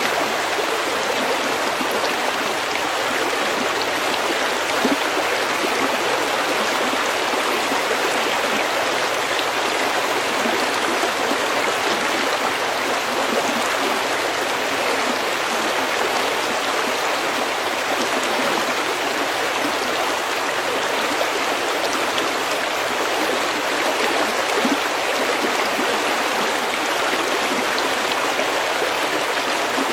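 Stream water running steadily over pebbles, an even rush of water with no breaks.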